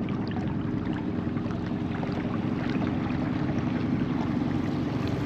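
A boat engine running at a steady pitch, with a hiss of water and wind noise over it.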